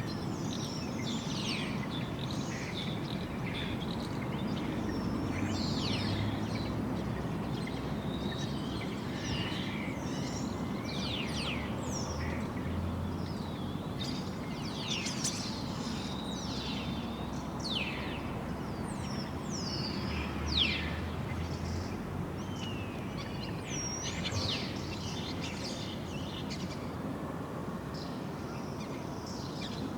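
Many small birds chirping together, a busy stream of short, quick downward-sweeping calls with no pause. Under them runs a steady low background rumble.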